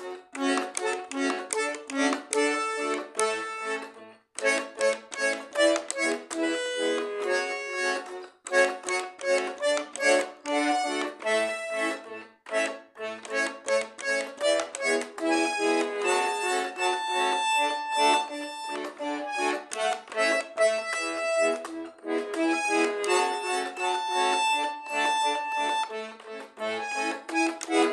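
Garmon (Russian button accordion) playing a melody over chords, with short breaks between phrases in the first half and longer held notes later.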